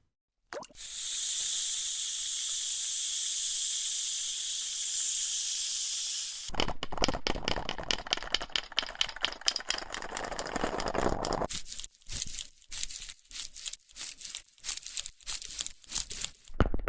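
A sequence of ASMR trigger sounds: a steady high hiss for about six seconds, then dense crackling, then a run of quick separate taps or crinkles.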